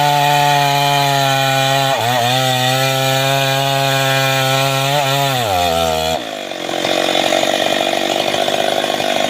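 Two-stroke chainsaw running at a steady part throttle, its pitch dipping briefly twice. About five and a half seconds in the engine sags as the chain bites, and it then saws through wood for the rest.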